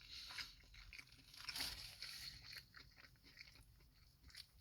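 Faint chewing of a crispy fried Popeyes chicken sandwich, with small irregular crunches from its breading.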